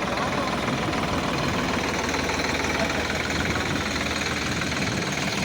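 Sonalika 745 tractor's diesel engine running steadily at a constant speed.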